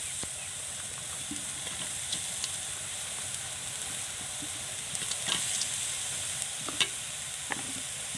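Chopped onion sizzling steadily in hot cooking oil in a pan, with a few sharp knocks of the stirring utensil against the pan in the second half.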